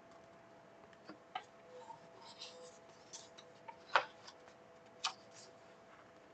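A few scattered small clicks and soft rustles, the loudest click about four seconds in, over a faint steady hum.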